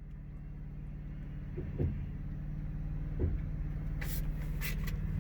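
Riding lawnmower's engine running steadily and slowly growing louder as it takes up the tow, with two light knocks and a few brief sharp creaks near the end.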